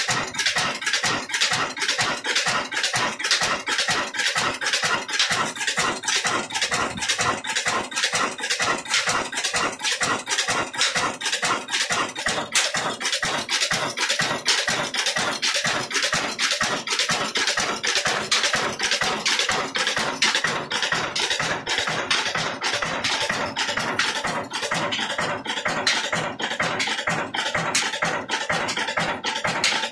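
Old Ruston Hornsby stationary diesel engine running a chakki flour mill, with an even metallic clatter of about five knocks a second.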